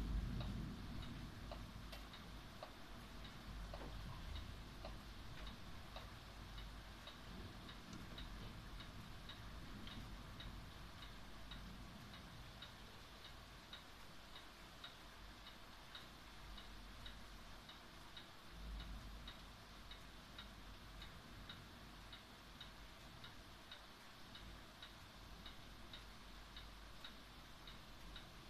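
Faint, steady ticking, evenly spaced, over a low rumble that is strongest at the start and swells briefly again a little past halfway.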